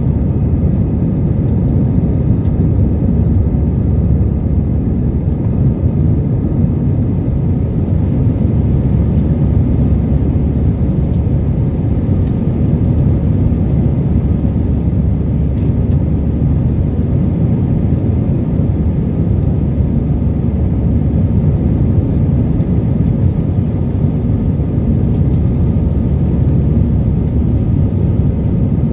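Steady low rumble of an Airbus A320's jet engines and airflow heard inside the passenger cabin, with faint steady tones above the rumble.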